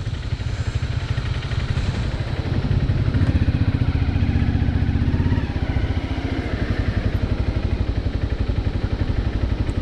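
Motorcycle engine running steadily under way, its rapid low pulsing steady throughout, a little louder for a couple of seconds in the middle before easing back.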